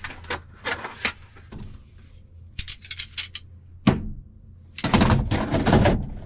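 Handling noises in a small space: a string of clicks, light knocks and high ticks, then a loud stretch of rustling and clattering about five seconds in.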